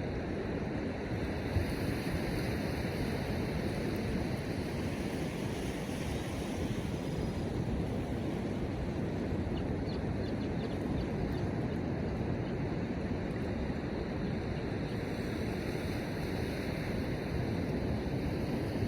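Steady noise of wind and ocean surf on the beach during a snowstorm, with wind rumbling on the microphone.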